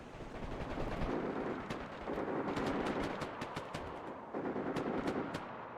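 Distant automatic gunfire: a long, rapid exchange of shots, echoing, that swells in two heavy waves.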